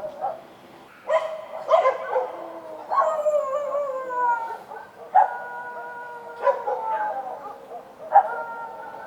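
Street dogs barking and howling: a string of sharp barks, several drawn out into long howls that slide down in pitch.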